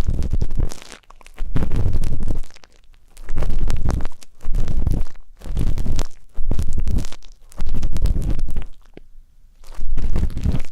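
Ear pick scraping and rubbing inside an ear in repeated strokes about a second long, about eight of them, each with crackling over a deep rumble.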